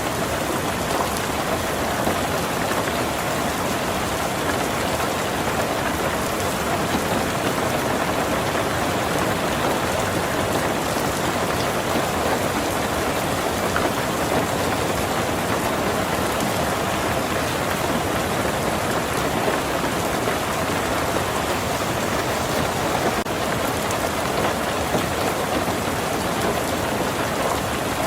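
Heavy rain falling steadily on a tin roof, a dense, even patter of drops that does not let up.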